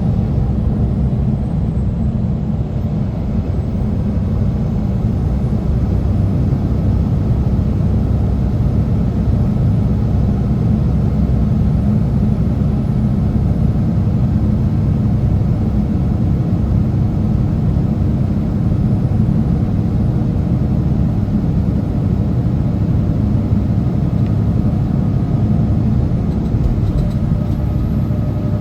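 Heavy semi truck's engine and road noise: a steady low rumble that holds evenly throughout.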